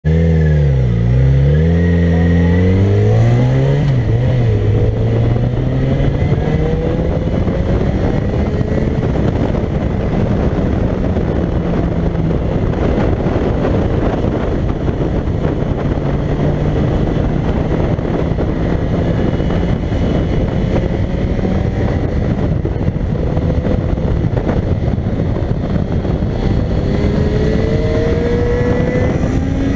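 Yamaha XJ6 motorcycle's inline-four engine: the revs dip and rise over the first few seconds, then it runs on under a dense rush of noise, its pitch climbing near the end.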